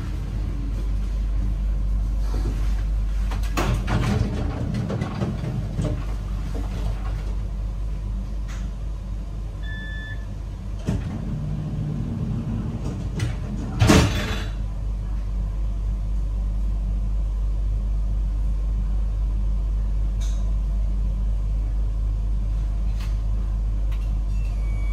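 Steady low rumble of a train, with a short faint beep a little before halfway and a brief loud burst of noise about halfway through.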